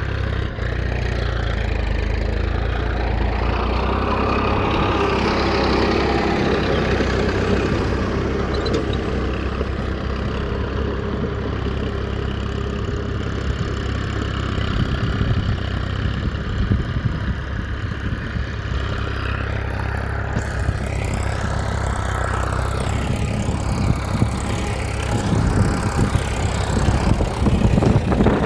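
Mini dumper's small motor running steadily with a low even hum, getting more rattly near the end.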